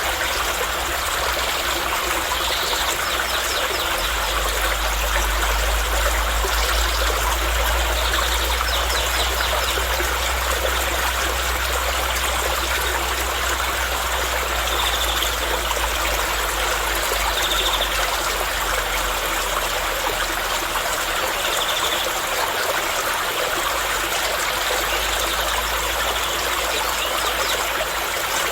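Steady rushing and trickling of a flowing stream, with a low rumble underneath and a few short, faint high chirps scattered through.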